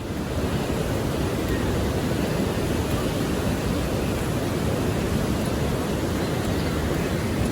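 Steady roar of falling water at Niagara Falls, an even rushing noise heaviest in the low range.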